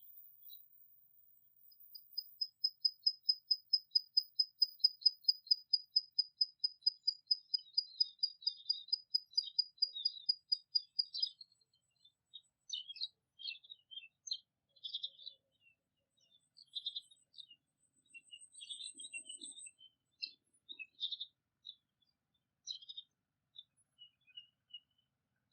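Songbirds calling. For about nine seconds one bird repeats the same high note quickly and evenly, about four or five times a second, then it stops and short, scattered chirps follow.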